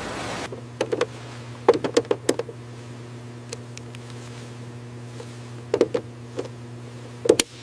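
A hiss that cuts off about half a second in, then a steady low electrical hum with about ten sharp clicks and light knocks from hand work on aircraft wiring harnesses.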